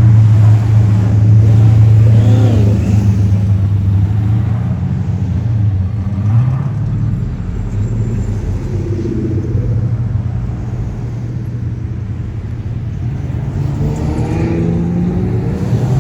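Cars running at low speed with a deep, loud engine rumble, loudest in the first few seconds, then easing off as the car moves away, with another one building up near the end.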